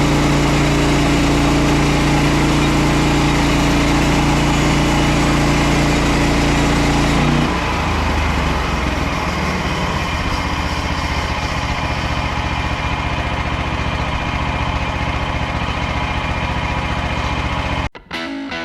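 Petrol engine of a Frontier OS27 portable bandsaw mill running steadily, then about seven seconds in its note drops and turns rougher with more saw noise, as when the blade goes into a larch log under load. The sound cuts off abruptly near the end.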